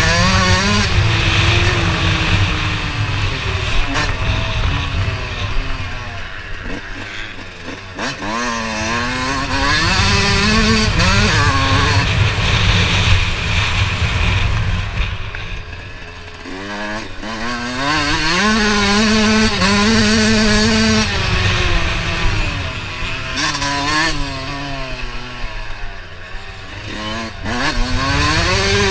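Motocross dirt bike engine revving up and down as the throttle is worked, its pitch climbing and dropping several times, over a steady low rushing noise.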